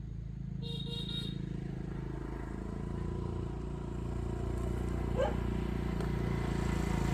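Motorbike engine running steadily while riding, with two short horn beeps about a second in.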